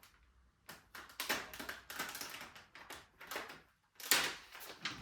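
Rapid clicks and rustling as packaging is handled and pulled off a new mountain bike's frame, with a sharper burst about four seconds in.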